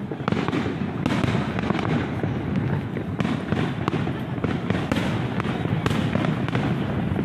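Aerial firework shells bursting in quick succession: an unbroken run of booms and crackles, several bursts a second over a continuous low rumble.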